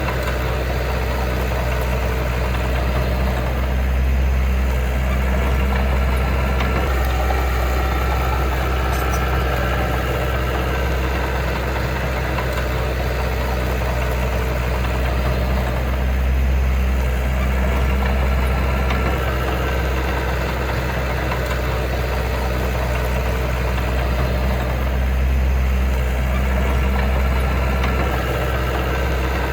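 Heavy diesel engine of earthmoving machinery running steadily with a deep low hum, swelling slightly a few times.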